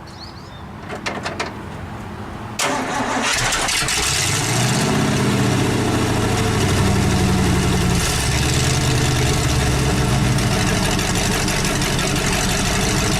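A Ford F-150's engine is started with its exhaust cut off. After a few light clicks it fires about two and a half seconds in, then runs loud and raw through short open pipes with no mufflers.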